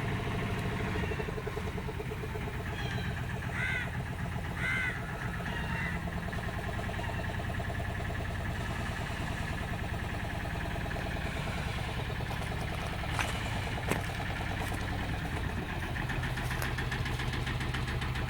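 Motorboat engine running steadily with a low, even hum. A few short high chirps come about three to five seconds in, and two brief knocks a little past the middle.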